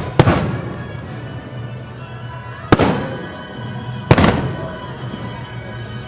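Aerial firework shells bursting: three loud bangs, one at the start, one a little before the middle and one about two-thirds through, each trailing off in a long echoing rumble.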